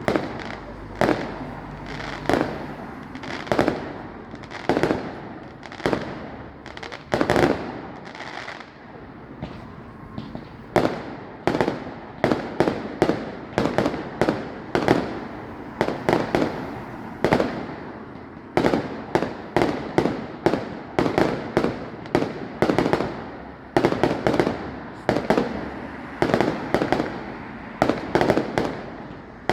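Fireworks display: a steady barrage of aerial shells bursting, one to several bangs a second, each followed by a short echo, with a brief lull about a third of the way through.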